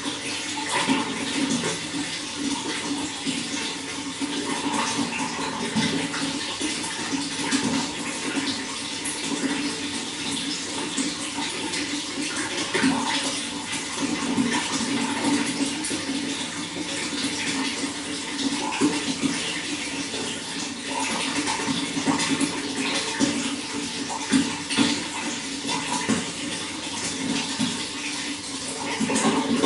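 Running water flowing and splashing steadily, with small gurgles rising and falling.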